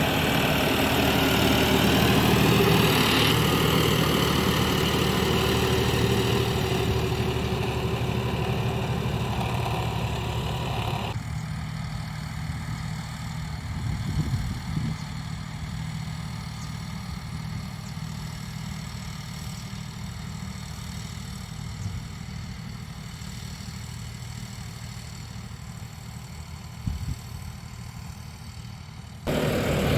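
John Deere 5405 tractor's common-rail diesel engine running steadily. About eleven seconds in, its brighter upper sound drops away abruptly, leaving a quieter, duller engine note that jumps back to full loudness just before the end.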